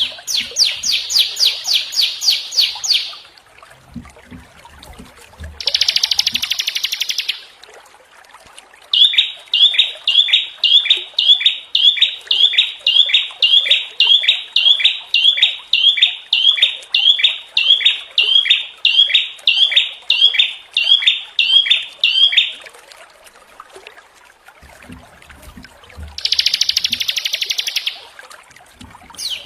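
Small songbirds singing in harsh, rapid phrases: a fast rattling trill, a short buzzy burst, then a long run of sharp slurred notes at about two a second. Another buzzy burst comes near the end, with soft low thumps under the buzzy bursts.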